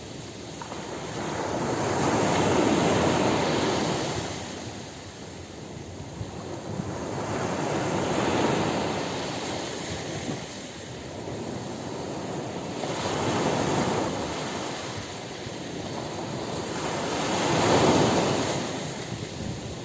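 Ocean surf breaking and washing up a beach, swelling and fading four times about five seconds apart, the last wave the loudest.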